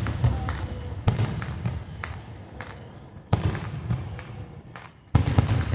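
Aerial fireworks bursting: three loud booms about two seconds apart, each dying away slowly, with smaller sharp pops and crackles in between.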